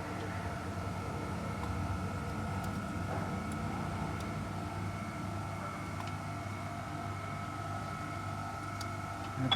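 A car engine running steadily at idle: a low even hum with a faint steady whine above it and no revving.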